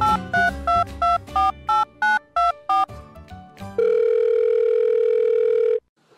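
Telephone keypad dialing tones over music: about ten quick two-note beeps in a row. Then a steady phone tone holds for about two seconds and cuts off suddenly.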